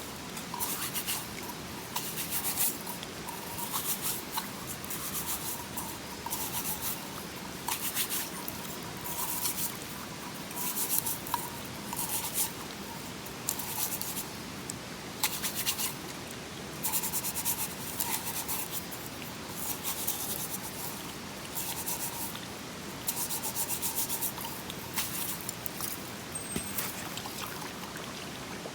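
Rhythmic scraping strokes, roughly one every second or so, each a short scratchy rasp, over the steady rush of a mountain stream.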